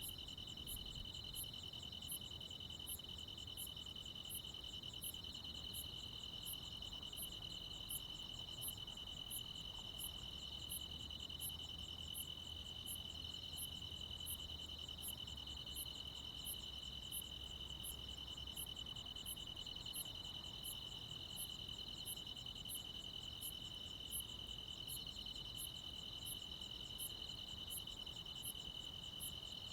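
Night chorus of crickets and other insects: a steady high-pitched trill, with a higher insect chirp repeating regularly, about three chirps every two seconds.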